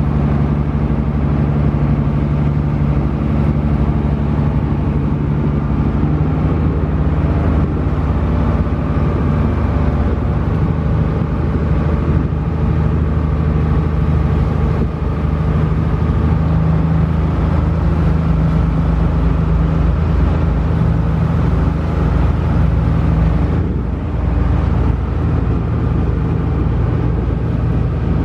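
Small passenger ferry's engine running steadily under way, a loud low drone heard on board. Its pitch shifts slightly about six seconds in and again near the end.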